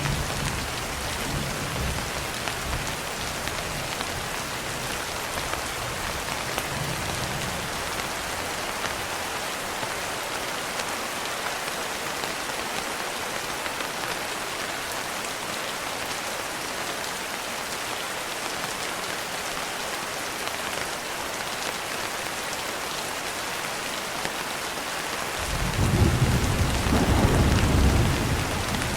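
Steady heavy rain, with a rumble of thunder dying away over the first several seconds. A loud new roll of thunder breaks in near the end and lasts about three seconds.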